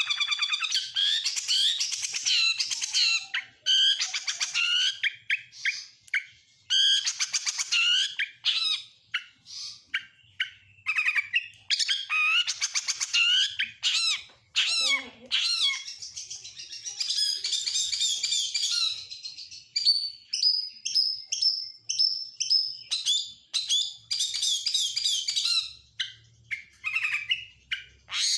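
Oriental magpie-robin singing a long, varied song of whistles, chirps and fast trills, in phrases broken by short pauses, including a run of quick even notes about two-thirds of the way through. It is a 'full isian' song, laced with mimicked calls of other birds such as lovebird, canary and prinia.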